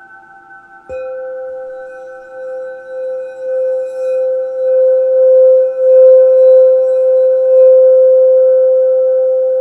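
Crystal quartz singing bowl struck about a second in, then played around the rim so its single pure tone swells in pulsing, wavering waves and grows loud. Fainter, higher tones from other bowls ring on beneath it.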